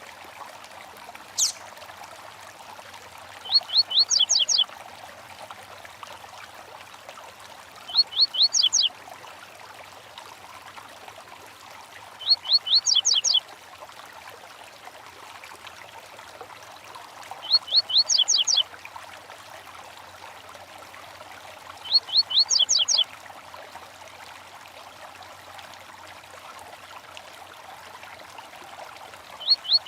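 A small stream running steadily, with a songbird repeating a short phrase of quick, high rising notes about every four to five seconds, and one single sharp chirp near the start.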